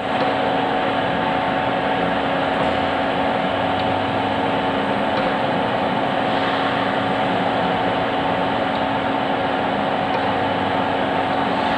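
Ravensburg L-500 facing lathe running, its 11.5 kW Siemens motor and drive giving a steady mechanical hum with constant tones.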